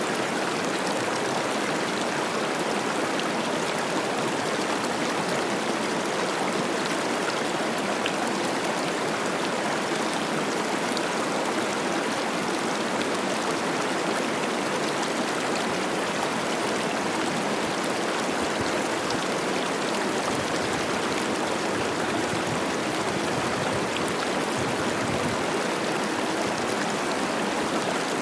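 Mountain river running high with spring snowmelt, a steady rushing and babbling of water over rocks.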